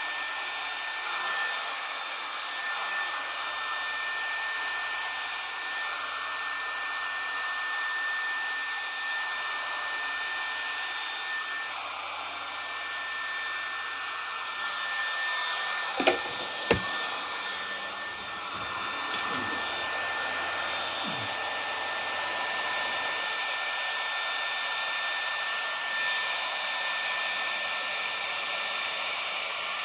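Remington HC6550 cordless vacuum hair clippers running: a steady whir of the cutting motor and built-in vacuum fan, with a thin high whine. Two sharp clicks come about halfway through.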